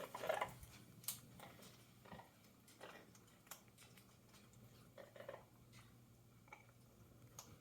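Panama Amazon parrot crunching food pellets with its beak: faint, scattered clicks and cracks, roughly one a second.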